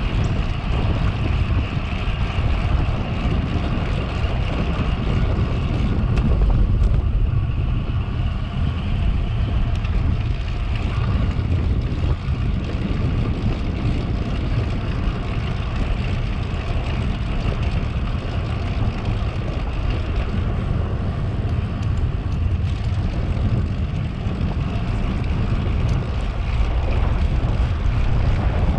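Steady wind rumble buffeting the microphone of a camera riding on a moving bicycle, with rushing noise and no clear tones or strikes.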